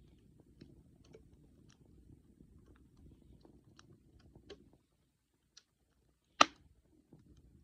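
Wood bonfire crackling softly with scattered small snaps. The sound drops almost to nothing for about two seconds, and in that gap comes one sharp, loud pop.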